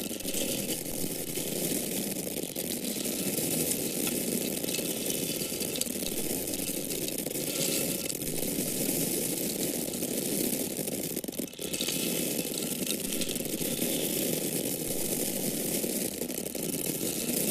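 Dry corn kernels pouring and falling in a continuous stream, a dense patter of many small grain impacts, with a brief break about eleven seconds in.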